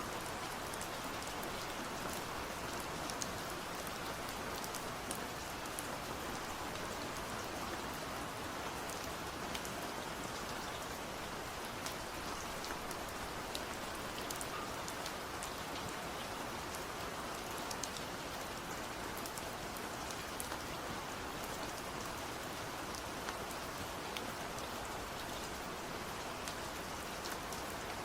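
Steady rain falling, a constant even hiss with scattered individual drops ticking throughout.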